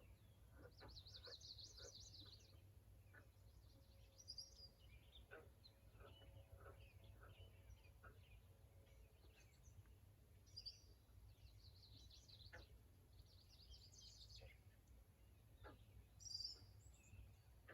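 Near silence with a low steady hum, and faint birdsong: short chirps and trills every few seconds.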